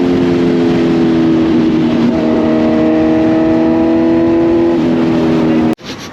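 Kawasaki Z900 inline-four motorcycle engine running loud at fairly steady revs, its pitch drifting only slightly; the sound cuts off abruptly near the end.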